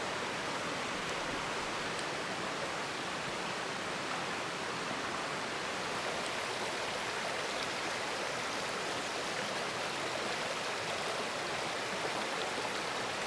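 Steady rush of a mountain stream flowing over rocks: an even, unbroken hiss of water with no change in level.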